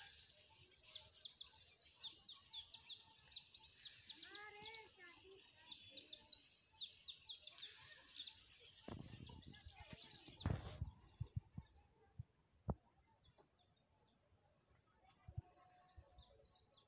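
Small birds chirping in a rapid, continuous chatter of short high calls that thins out to scattered chirps about eleven seconds in. Just before that comes a short rush of noise and a few sharp knocks.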